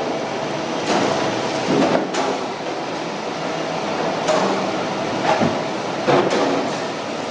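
Steady machine hum with irregular clattering knocks, several in a few seconds, from kimchi filling and packing work.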